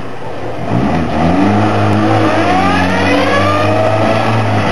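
Toyota MR2 engine in a light, home-built mid-engine sportscar accelerating. Its note climbs about a second in and then holds steady.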